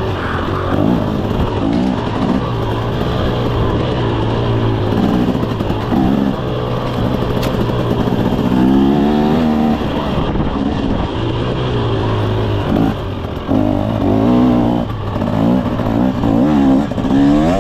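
KTM 300 SX two-stroke single-cylinder dirt bike engine being ridden, revving up and down again and again as the throttle is worked, its pitch rising and falling many times.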